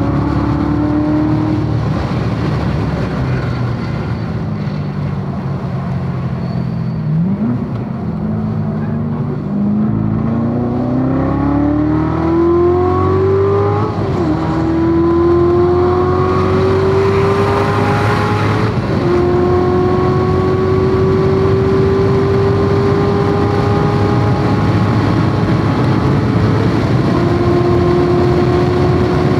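C7 Corvette Z06's supercharged 6.2-litre V8 at racing pace, heard from inside the car: engine note falling off-throttle, a quick rev-matching blip on a downshift about seven seconds in, then pulling hard up through the gears with three upshifts. Tyre and wind noise run underneath.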